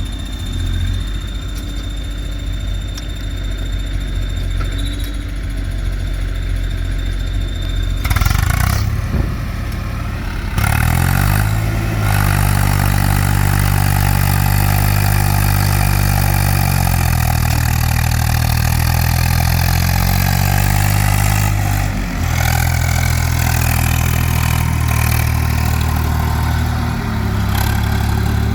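Heavy diesel machinery engine at work loading sand: it runs at low revs, then revs up about ten seconds in and holds high revs. Its pitch sags and recovers under load, with a brief drop a little past two-thirds of the way through.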